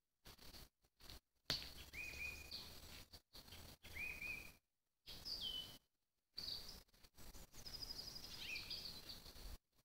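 Small songbirds calling faintly over a light hiss: short whistled notes that slide up and level off, a falling whistle, and a fast high trill near the end. There is a sharp click about a second and a half in, and the sound drops out to silence in several brief gaps.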